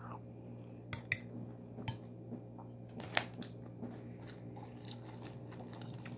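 A person chewing a mouthful of rice mixed with cucumber and yogurt, with a few short sharp clicks scattered through, over a steady low hum.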